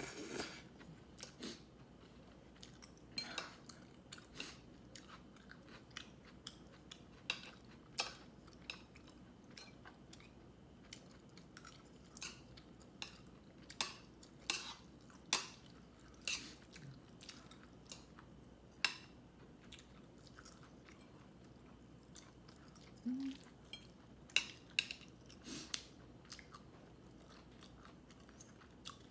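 A person chewing food close to the microphone, with sharp crunches and mouth clicks at irregular moments, roughly one or two a second.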